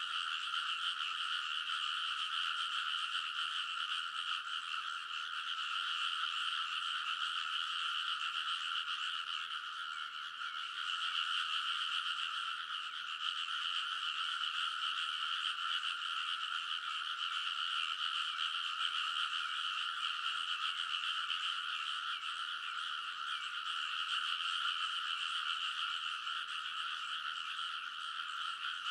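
Many frogs calling at once in a dense, continuous chorus of overlapping croaks, easing slightly for a moment about ten seconds in.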